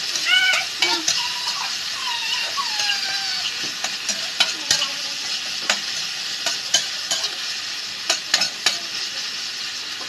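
Chopped tomatoes, onion and garlic sizzling in hot oil in a stainless-steel wok, with a steady hiss. They are being stirred, and the utensil clicks and scrapes against the pan at irregular moments.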